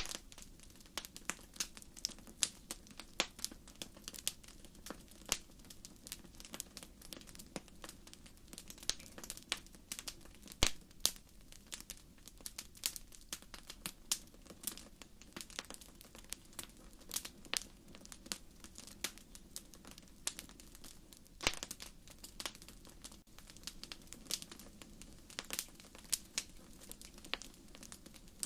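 Wood fire crackling: irregular sharp pops and snaps over a low steady hiss, with a louder pop about ten seconds in and another about twenty-one seconds in.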